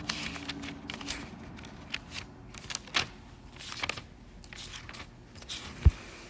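Thin paper pages of a Bible being leafed through: a series of short rustles and flips, with a soft low thump near the end.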